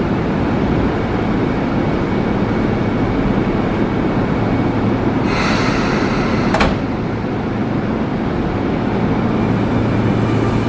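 Sotetsu commuter electric train waiting at the platform with a steady hum. About five seconds in, its doors close with an air hiss and a thud. Near the end a faint rising motor whine begins as the train starts to pull away.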